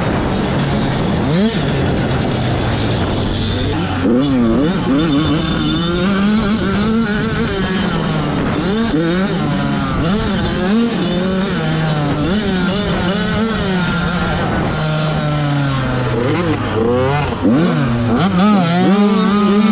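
Several 85cc two-stroke motocross bikes racing, their engines revving up and down and overlapping as the riders work the throttle.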